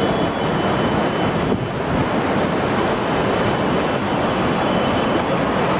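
Steady, loud roar of rushing floodwater sweeping through a town, with wind buffeting the microphone.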